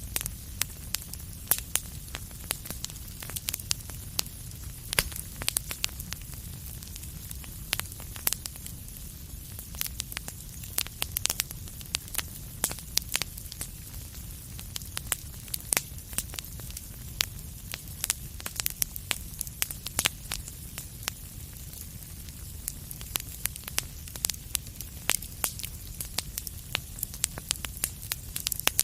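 Wood fire crackling steadily, with frequent sharp irregular pops and snaps over a low, even rumble and hiss.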